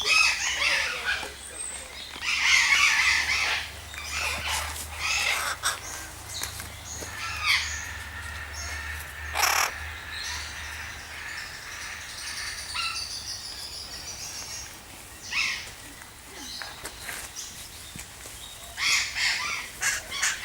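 Aviary birds calling on and off: a mix of chirps and harsh, crow-like squawks, with one loud harsh call about halfway through.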